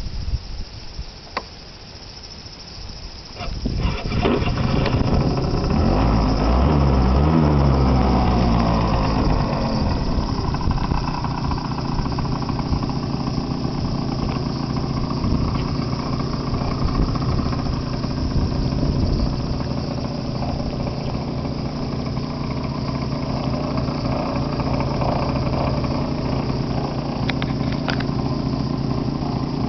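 Yamaha Vino Classic two-stroke 50cc scooter engine starting about three and a half seconds in, its speed sweeping and falling off, then idling steadily.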